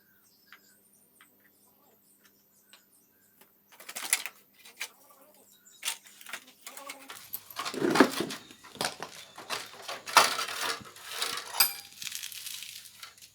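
Metal parts clinking and scraping as they are handled, an irregular series of clatters that starts about four seconds in after a near-quiet stretch with a few faint ticks.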